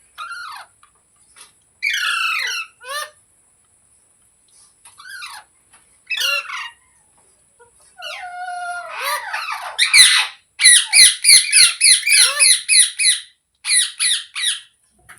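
Pet green parrot squawking: short separate calls at first, then a fast run of repeated shrill squawks, about four a second, in the second half.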